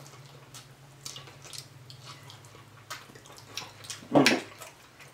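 Close wet mouth sounds of people chewing and biting barbecued pork ribs off the bone: scattered smacks and clicks, with a louder smack about four seconds in.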